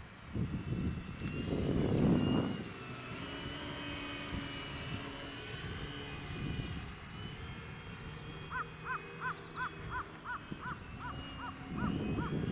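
Radio-controlled airplane's motor and propeller whining in flight, a steady high tone that shifts slightly in pitch as it passes. A gust of wind hits the microphone about two seconds in, and in the second half a bird calls in a quick series of short notes, about three a second.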